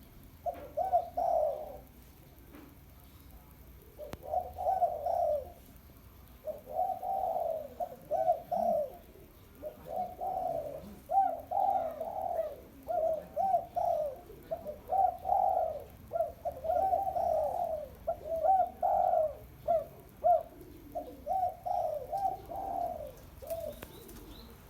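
Spotted dove cooing: repeated runs of low coo phrases, with short pauses between the runs.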